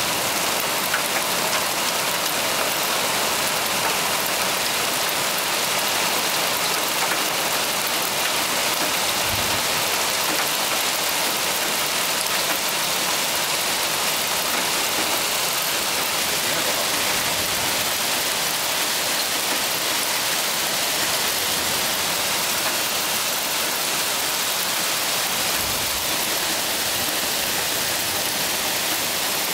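Heavy rain pouring steadily in a thunderstorm, a dense even hiss of rain on surfaces. Two brief low thuds sound faintly underneath, about a third of the way in and near the end.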